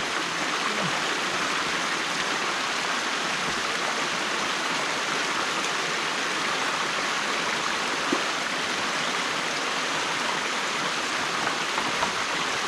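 Stream water running steadily through a beaver dam that is being broken open by hand, with one faint short knock about eight seconds in.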